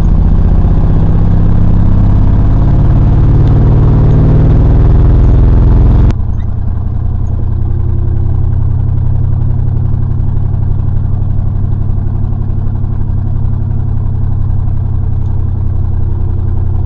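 Old GM truck's engine under way, heard from inside the cab: it runs loud and rises slightly for about six seconds, then drops abruptly to a quieter, steady run. The owner says one cylinder does not fire while driving, giving a small cutout in the running instead of a smooth note.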